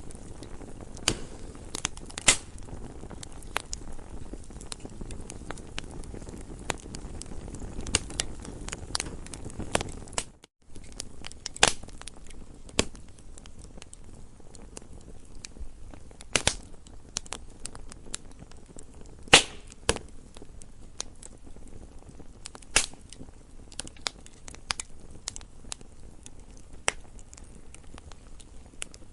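Campfire crackling: a low steady rush from the burning wood with frequent sharp pops and snaps, a handful of them much louder. The sound drops out for an instant about ten seconds in.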